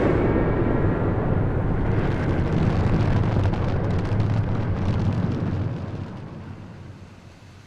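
Low, rumbling roar of the Mirage volcano show's eruption effect, with crackling through the middle, fading out over the last couple of seconds.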